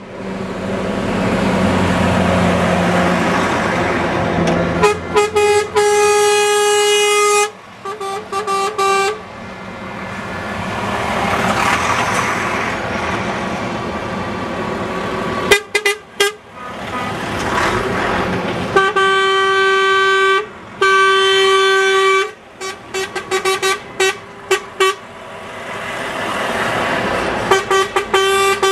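Truck air horns honking in a convoy: long blasts and quick strings of short toots, between the rising and falling noise of trucks driving past.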